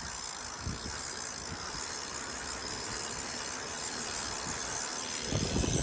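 Steady hiss of outdoor noise; a little before the end, a louder low rumble of wind on the microphone sets in.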